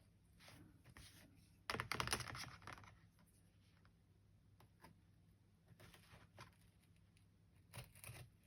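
Craft knife scraping and cutting into a 3-ring binder's padded cover, with a louder stretch of rapid scratchy ticks about two seconds in and light clicks and handling sounds around it.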